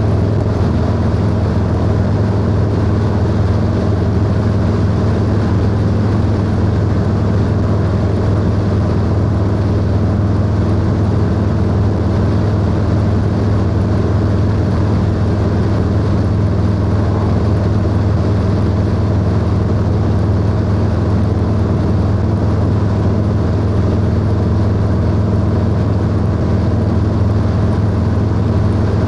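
Harley-Davidson Low Rider S V-twin engine and exhaust holding a steady cruise, its deep low drone even throughout with no revving or gear changes.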